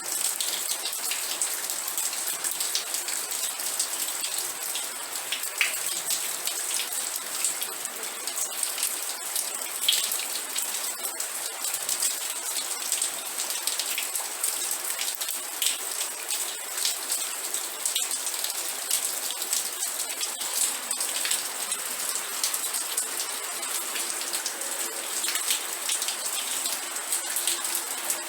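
Steady rain falling, with many individual drops ticking close by on a surface.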